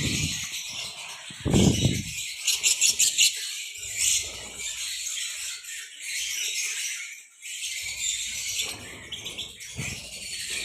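A flock of lovebirds chattering and chirping continuously in high, shrill calls, with a few low thumps, the strongest about a second and a half in.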